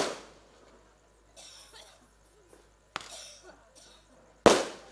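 Aerial firework shells bursting. A loud bang at the start dies away, a faint crackle follows about a second and a half in, then a smaller bang about three seconds in and a loud one near the end.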